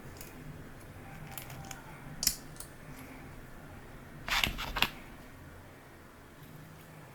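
Hard plastic clicks and taps as 3D-printed stand parts are handled and fitted together: a sharp click about two seconds in, then a quick run of several clicks a little past halfway.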